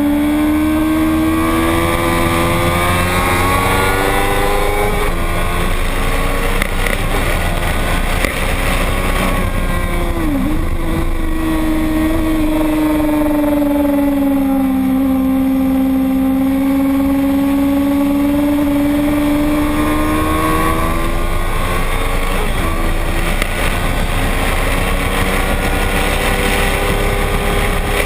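Racing motorcycle engine running hard through a lap of the circuit, its pitch slowly climbing and sinking with speed. About ten seconds in the pitch dips sharply and recovers, and it shifts again near the end.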